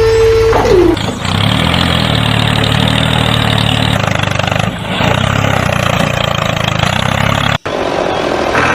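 A vehicle engine running steadily at a low pitch. Just before it, a held tone slides down in pitch and stops about half a second in, and the engine sound cuts off abruptly near the end.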